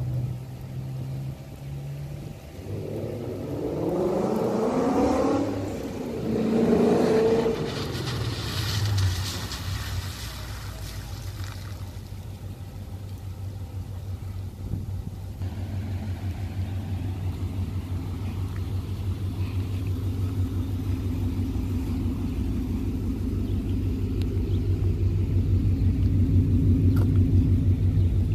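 Tuned 2015 Ford Mustang GT's 5.0-litre V8 revving in rising and falling sweeps as the car arrives, then settling into a low, pulsing idle rumble that grows louder near the end, heard close to the exhaust tips.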